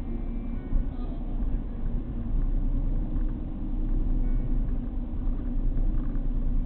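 Car on the move: a steady low engine and road rumble.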